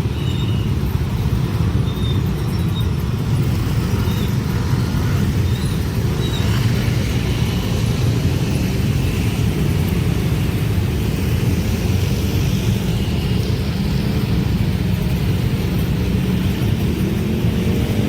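Steady, loud low rumble of running vehicle engines.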